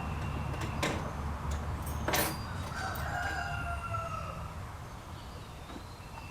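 A rooster crows once, a long call of about two seconds that falls slightly in pitch at the end, preceded by two sharp clicks.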